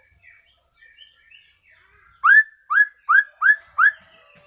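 White-rumped shama (murai batu) singing: faint twittering, then about two seconds in a run of five loud whistled notes, each rising in pitch, at roughly two and a half per second.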